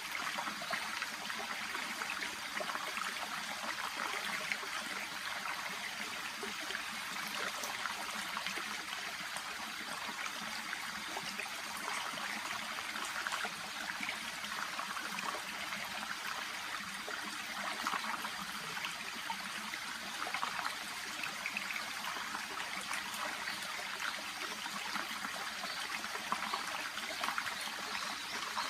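Shallow brook babbling and trickling steadily.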